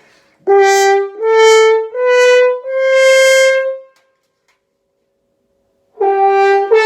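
French horn playing four loud notes stepping up the scale (written D, E, F sharp, G of G major), each started by a push of breath with no tonguing. Then, after about two seconds of silence, the same four notes begin again near the end.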